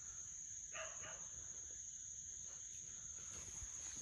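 Crickets chirring steadily at night in one unbroken high-pitched tone, with a faint short call about a second in.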